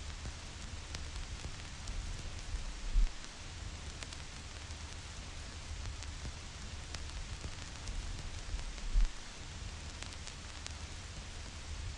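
Vinyl record surface noise: steady hiss with scattered clicks and pops from the stylus tracking dust and wear in the grooves, over a low rumble. A louder low thump comes about 3 seconds in and again about 9 seconds in.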